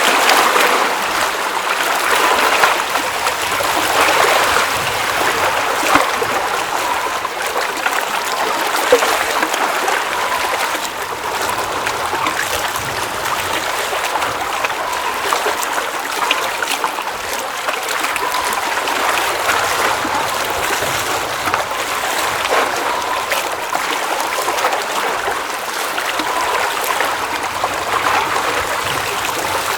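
Water at the edge of a glacial mountain lake, trickling and splashing in a steady babble dotted with small splashes.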